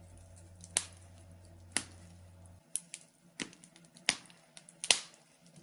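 Wood fire crackling in a fireplace: sharp, single pops at uneven gaps, about six of them, over a faint low hum that stops about halfway through.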